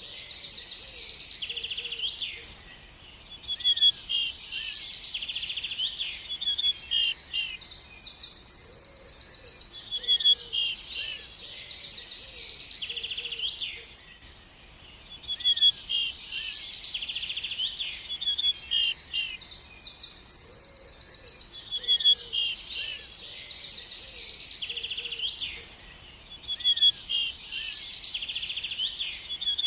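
Birds singing: dense high-pitched chirps and fast trills, with the song dropping away briefly three times, roughly every eleven seconds.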